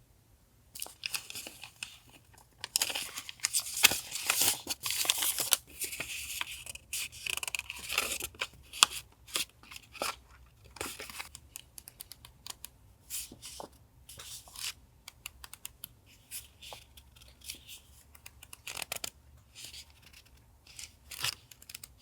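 Paper and plastic packaging handled, crinkled and torn by hand in irregular crackly bursts, busiest in the first half and sparser later, over a faint steady low hum.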